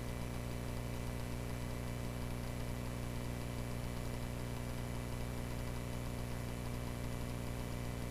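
Aircraft engine of a Cessna 140A droning steadily, an even, unchanging low hum.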